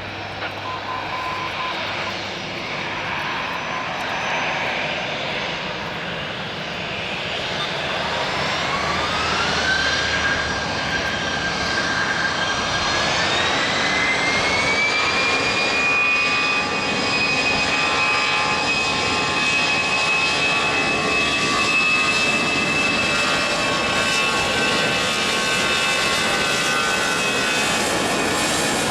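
Jet airliner's engines spooling up to takeoff power: a whine rises in two steps about a third of the way in, then holds at a steady high pitch as the engine noise grows louder and stays loud.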